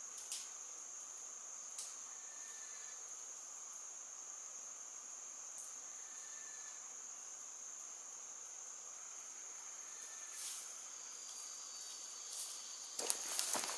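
An insect, such as a cricket, keeps up a steady high-pitched buzz without a break, with a few faint clicks. Near the end a louder burst of rustling and crackling begins.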